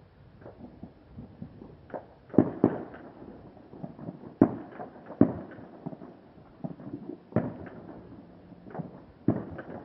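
Fireworks and firecrackers going off across a city: an irregular string of bangs and pops, with a few sharper, louder bangs standing out among fainter ones.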